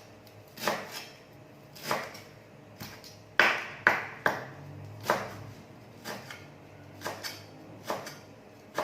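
Kitchen utensils knocking and clinking against cookware or a board, in irregular sharp strikes about one or two a second, some with a brief ring.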